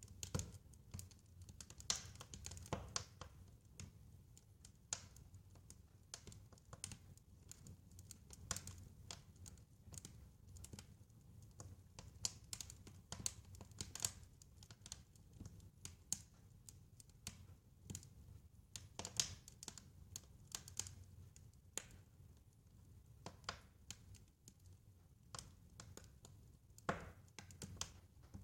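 Wood fire crackling in a fireplace: irregular sharp pops and snaps, a few to several a second, over a soft low rumble of the flames.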